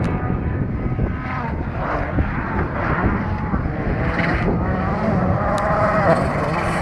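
Volkswagen Polo R WRC rally car's turbocharged 1.6-litre four-cylinder engine at speed on a gravel stage, revving up and down through the gears several times, with a fresh rise in revs near the end.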